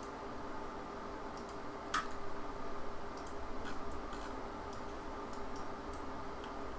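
Computer mouse clicking at irregular intervals, about a dozen sharp clicks with the loudest about two seconds in, over a faint steady hum.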